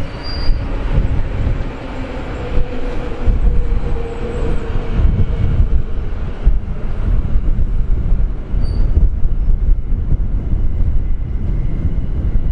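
Train passing on the track: a steady, heavy rumble with a few clicks.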